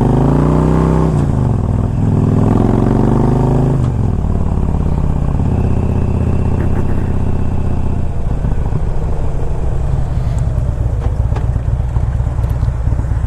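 2007 Harley-Davidson Electra Glide Standard's Twin Cam 96 V-twin pulling on the road: the engine note rises twice with a drop between, as at an upshift, then runs at a steady lower pitch and drops again about eight seconds in.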